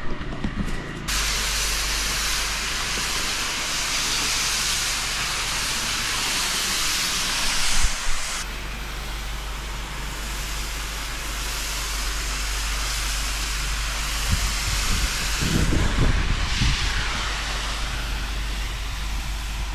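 Pressure washer jet spraying water onto patio slabs, a steady hiss that starts about a second in, as the cleaning treatment is rinsed off.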